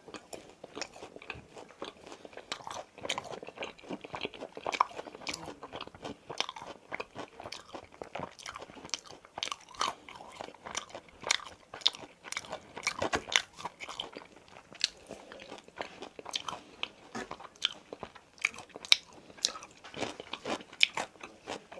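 Close-miked chewing of crispy boneless fried chicken: many quick, crisp crunches one after another.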